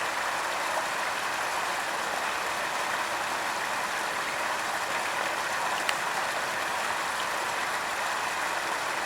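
Steady rush of water from a small waterfall on a stream, an even hiss that holds constant throughout, with one brief click about six seconds in.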